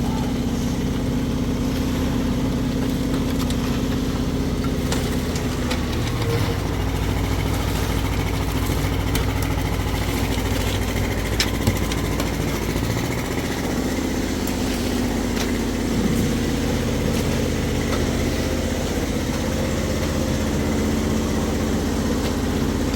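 An engine running steadily, its low note changing between about six and thirteen seconds in before settling back, with a few light clicks over it.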